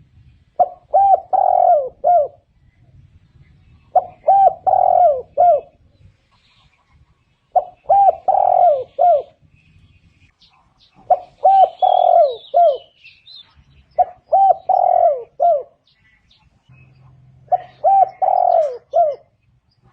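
Spotted dove cooing: six repeats of its phrase, each a few short coos around a longer, louder middle coo, about every three and a half seconds. A faint high chirp comes in about twelve seconds in.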